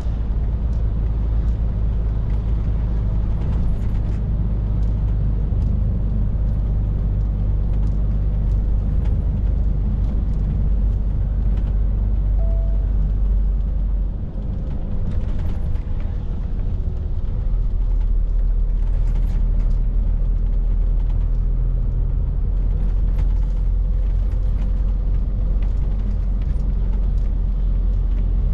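Scania R450 lorry's engine and road noise as it drives, a steady low drone with tyre hiss. The drone dips briefly about halfway through, then carries on with a changed note.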